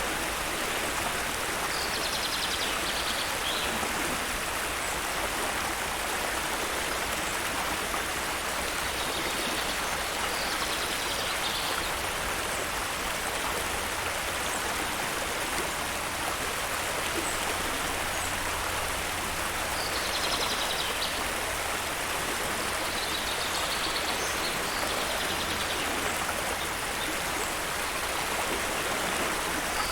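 Waterfall's steady rush of falling water. A few short, high bird calls come through it now and then.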